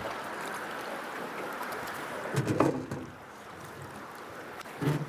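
Steady rush of river water around a drift boat, with two short louder noises, one about two and a half seconds in and one near the end.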